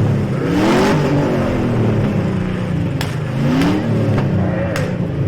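Demolition derby truck engines revving hard, over and over, with two sharp bangs, about three seconds in and again near five seconds.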